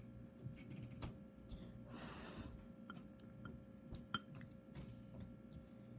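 Quiet chewing of a dumpling, with a few soft hisses and small clicks over a faint steady hum.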